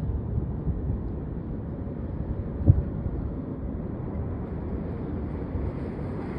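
Low, uneven rumble of an airplane after touchdown, mixed with wind buffeting the microphone, with one sharp thump about two and a half seconds in.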